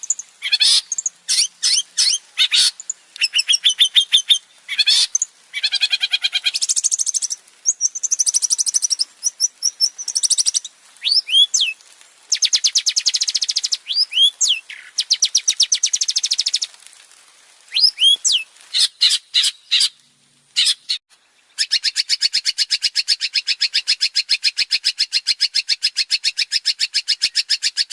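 Long-tailed shrike (cendet) singing a varied, loud song of rapid chattering phrases and sharp rising notes, with a short pause and then one long, even, fast trill in the last six seconds.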